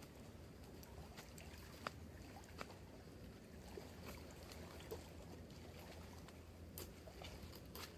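Faint campfire crackling: scattered sharp ticks and pops, one a little louder about two seconds in, over a low steady hum.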